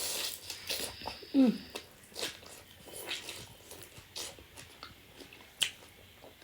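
Close-up chewing, biting and wet mouth clicks of a person eating a mukbang meal, with a brief sound falling in pitch about a second and a half in and a sharp click a second before the end.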